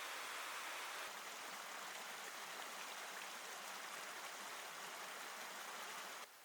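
Steady rushing noise with no distinct events, cutting off abruptly near the end.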